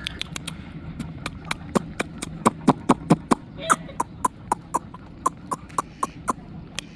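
Rapid, irregular sharp taps, about three to four a second, over a steady low hum.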